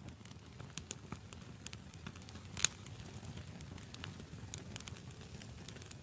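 Wood fire burning with irregular sharp crackles and pops over a low, steady rush of flame; one pop about two and a half seconds in is the loudest.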